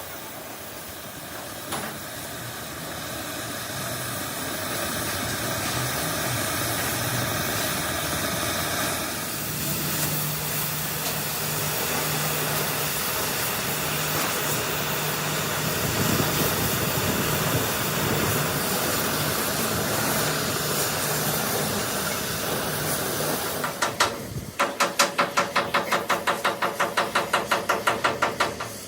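Metalworking in a workshop: a steady hiss that builds over the first several seconds and holds, then near the end a fast, even run of strikes, about five a second, for four or five seconds.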